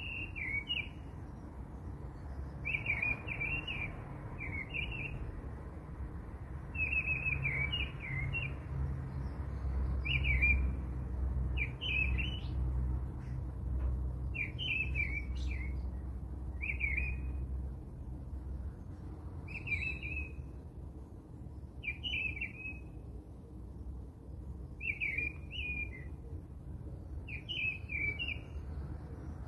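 A small bird chirping in short repeated phrases, roughly one every one to two seconds, over a low steady hum that swells in the middle and eases off later.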